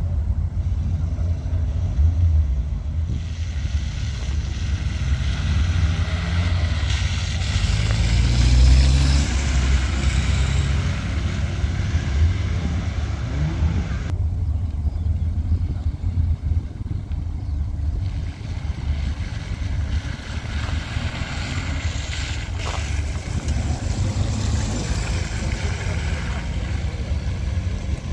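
Classic cars' engines running and pulling away, a deep steady rumble with one engine rising in revs about eight seconds in.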